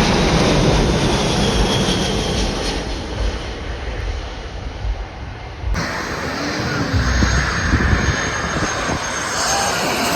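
Jet airliner engines heard close up: a loud, steady rushing noise. Partway through it changes abruptly to a somewhat quieter, varying stretch of the same kind of engine noise.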